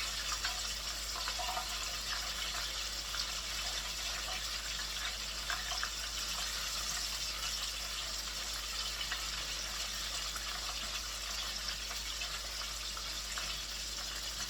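Flour-coated chicken pieces deep-frying in hot oil, a steady sizzle.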